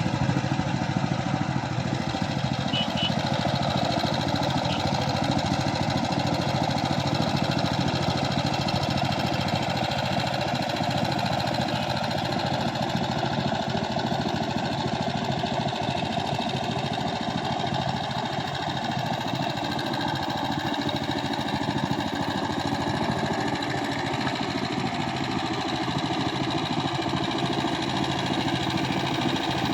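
Power tiller engine running steadily at an even speed.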